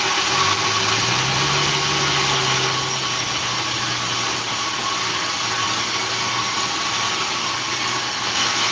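Sawmill engine running steadily at idle-like speed, its pitch rising a little about half a second in and easing back down after about three seconds.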